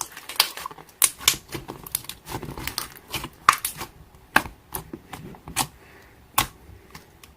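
Slime being pressed and stretched by hand, with irregular sharp clicks and snaps of trapped air popping and crinkly squishing between them.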